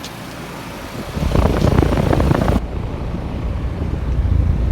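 Trane XR14 3-ton heat pump starting up in cooling mode: a loud low hum comes on suddenly about a second in and keeps running.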